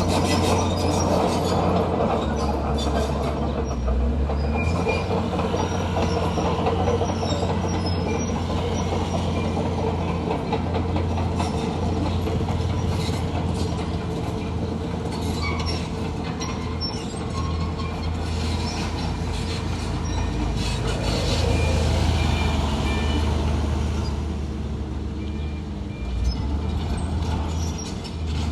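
Komatsu D41P crawler bulldozer working: its diesel engine running steadily under load while the steel tracks clank, with brief high squeals from the track running gear now and then.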